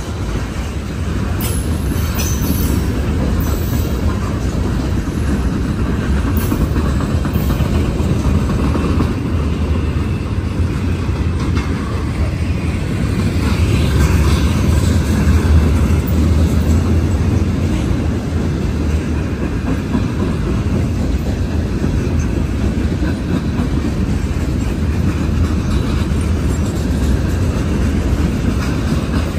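Freight train's cars (tank cars, hoppers, boxcars) rolling past close by: steel wheels on the rails making a steady low rumble.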